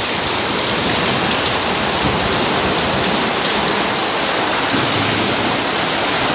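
Heavy rain pouring down: a steady, dense downpour.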